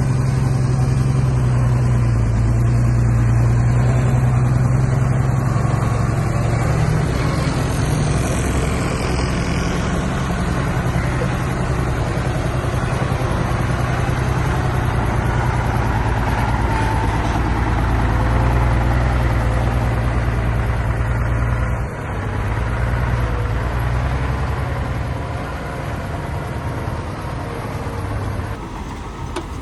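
Diesel engine of a heavy earthmoving machine running steadily, with a strong low engine tone; it eases off slightly near the end.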